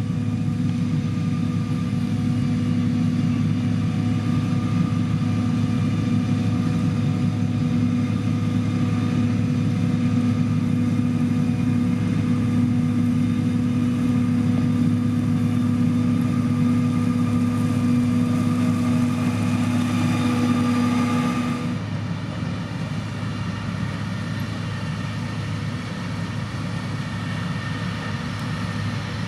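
Heavy diesel construction machinery running steadily at a constant engine speed. About three-quarters of the way through, one engine tone stops and the sound becomes quieter, while a low engine hum carries on.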